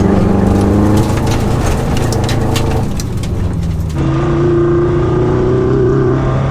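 Subaru boxer engine running as the car drives a dirt trail, with a run of sharp clicks and knocks a second or two in. About four seconds in the sound switches to a steadier, more muffled engine drone.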